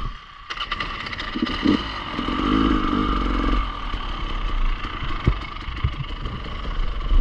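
Enduro motorcycle engine running and revving, with a sharp knock about five seconds in.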